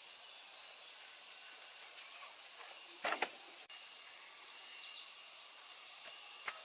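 Steady high-pitched drone of insects chirring, with a short knock about three seconds in and a fainter one near the end.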